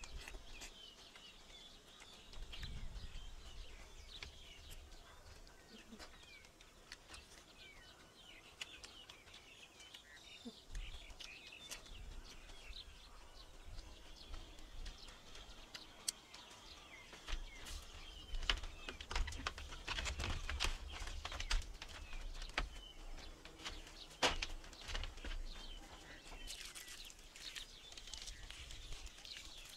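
Birds chirping and calling throughout, with scattered sharp clicks and taps in the second half and a low rumble at times.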